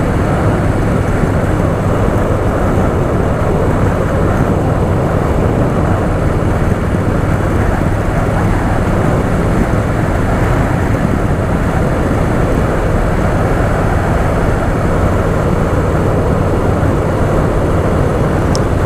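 Harley-Davidson Softail Fat Boy's V-twin engine running steadily as the motorcycle rides along, with wind noise on the microphone.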